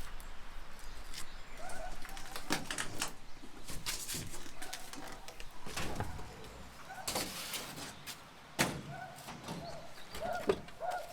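Birds giving short repeated calls, mixed with scattered knocks and clatter.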